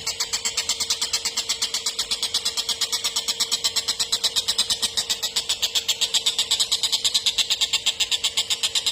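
Kingfisher giving its long, rapid chattering 'ngekek' call: an unbroken run of sharp, high notes at about ten a second, held steady.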